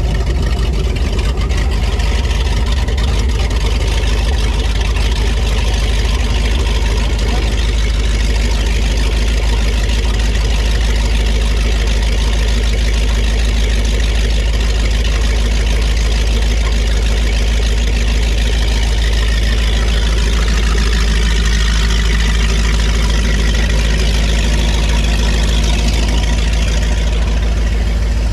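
2002 Donzi Classic 22's engine idling steadily just after start-up, a loud, even low running note.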